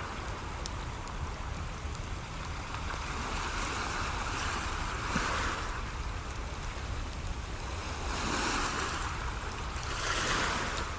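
Ocean waves washing onto a shore, swelling louder three times, with a wood fire crackling faintly beneath.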